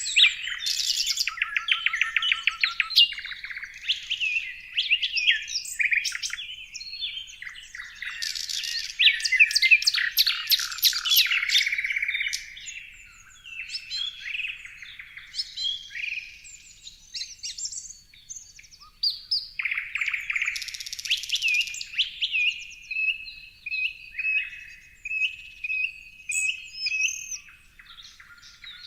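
Several songbirds chirping and singing, with fast trills and overlapping calls for the first dozen seconds, then sparser chirps and a run of short repeated notes near the end.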